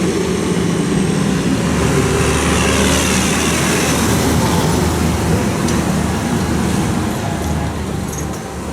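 Tractor engine running close by with a steady low throb, easing off slightly near the end.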